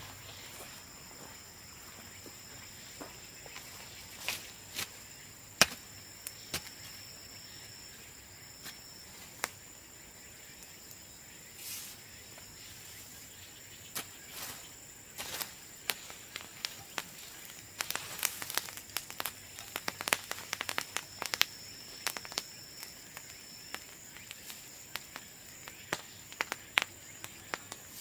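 Bonfire of cut bamboo crackling: scattered sharp pops and snaps, sparse at first and coming much thicker in the second half.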